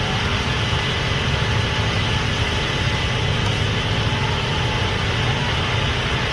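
Case IH Axial-Flow 8250 combine running with a steady, even drone of engine and machinery.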